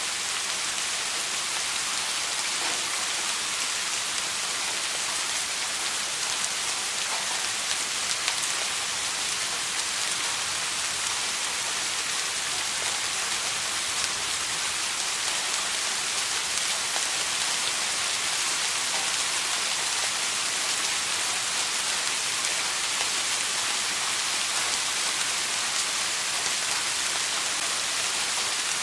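Steady rain falling, an even hiss of many fine drops ticking on a surface, with no thunder or gusts.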